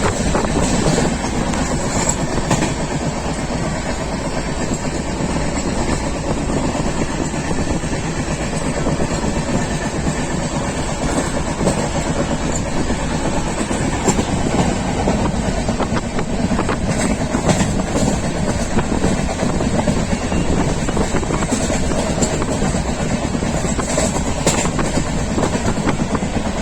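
A train running at speed: a steady loud rumble of wheels on rails, with occasional sharp clicks of the wheels over rail joints.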